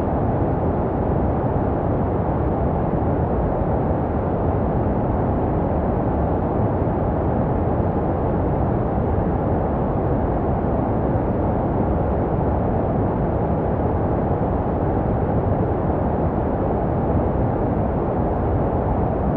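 Steady, muffled white noise for baby sleep: an even rush weighted towards the low end, with little treble. It is made to resemble the sounds a baby hears in the womb.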